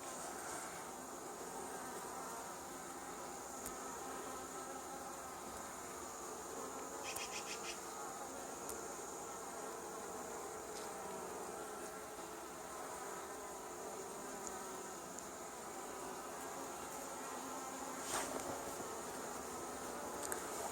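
Honey bees from a newly hived swarm buzzing steadily around the hive entrance, with bees fanning there, which the beekeeper takes as a good sign the swarm is taking to the hive. A brief rattle of clicks about seven seconds in and a single knock near the end.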